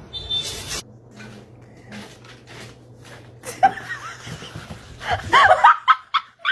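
A person laughing in short, pitched bursts over the last couple of seconds, cutting off abruptly, after a brief rush of noise and scattered clicks and knocks.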